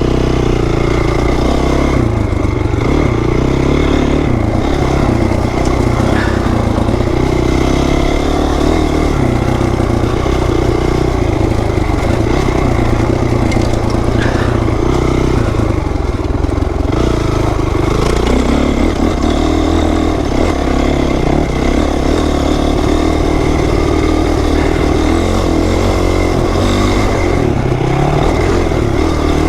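Single-cylinder four-stroke engine of a 2008 Honda CRF450R dirt bike running under way, its pitch rising and falling now and then with the throttle.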